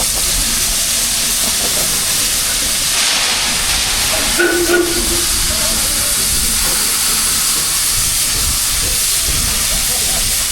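Steam locomotive venting steam with a loud, steady hiss. A brief tone sounds about four and a half seconds in.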